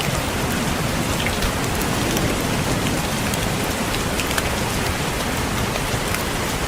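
Steady rain with raindrops tapping on a window pane, a constant hiss with many small scattered taps.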